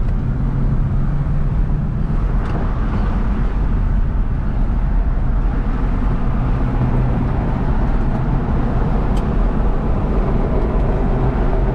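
Steady drone of a car driving at speed: engine hum with road and wind noise.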